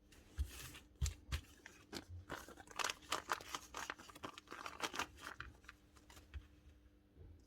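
Hands handling small parts: a quick, irregular run of clicks, taps and rustles, thickest in the middle and thinning out near the end.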